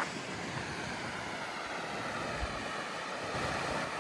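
Steady rushing roar of a horseshoe-shaped waterfall, with wind buffeting the microphone in irregular low rumbles.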